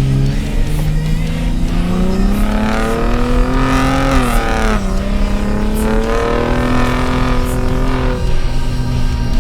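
Ford F-150 Raptor's engine accelerating hard off-road, its pitch climbing, dropping suddenly at an upshift about halfway through, then climbing again.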